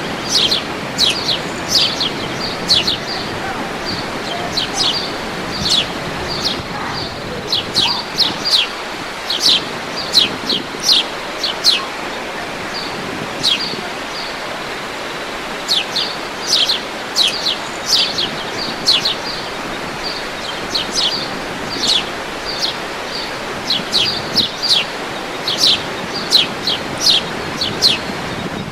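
Birds calling in many short, sharp chirps, each a quick downward sweep, coming irregularly throughout, over the steady rush of a waterfall.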